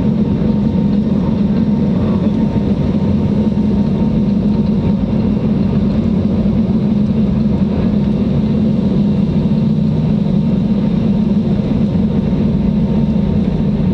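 Airliner engines at takeoff power during the takeoff roll, heard inside the passenger cabin as a steady, loud, low drone.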